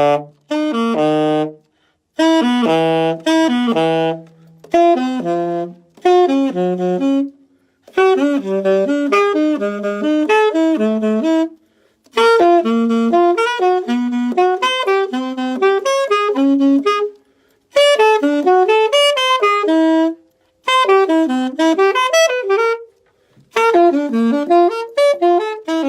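Alto saxophone played solo: a run of quick arpeggio phrases, each note stepping up and down through the horn's range and down to its low notes, with short breaths between phrases, played for a full tone.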